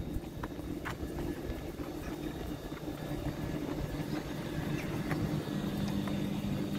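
Electric passenger train heard from inside the carriage: a steady low hum with scattered light clicks, and a second low tone coming in about five seconds in.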